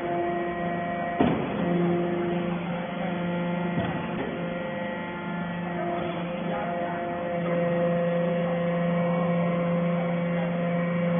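Hydraulic metal chip baler running, its motor and pump giving a steady electric hum that swells and fades as the press works, with a sharp knock about a second in and a lighter one about four seconds in.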